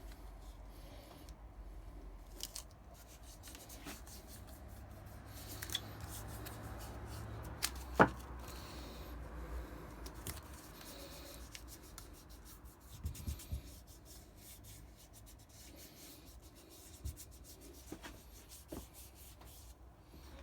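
Quiet handling sounds: light rubbing and scraping, with scattered small clicks and one sharp click about eight seconds in.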